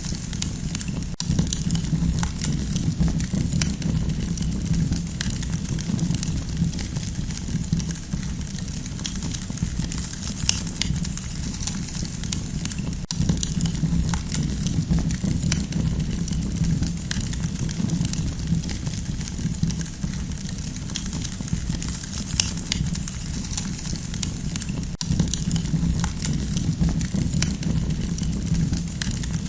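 Campfire burning, with frequent small crackles and pops over a steady low rumble.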